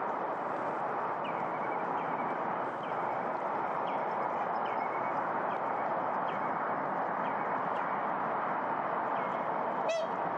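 A bird calling a short call over and over, about once a second, each call dropping in pitch and then levelling off, over a steady rushing background noise. A louder, sharper call comes near the end.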